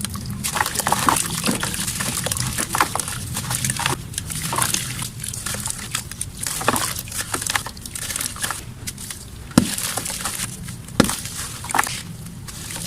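Dry, dusty mud chunks crumbling and crunching apart in a dense run of crackles, with two sharper, louder snaps in the last few seconds.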